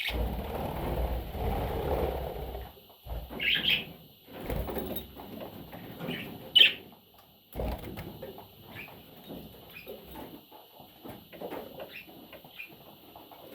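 Budgerigar giving short, high chirps, the loudest about six and a half seconds in, over low rustling and fluttering noise that is heaviest in the first few seconds.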